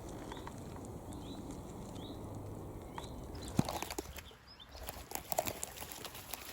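A small bird gives short, faint rising chirps about once a second. About three and a half seconds in comes a sharp snap, followed by a run of rustling and cracking twigs as someone pushes out through the vegetation.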